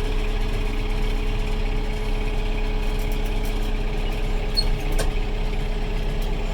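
Kubota 70-horsepower tractor's diesel engine running steadily at a constant low speed.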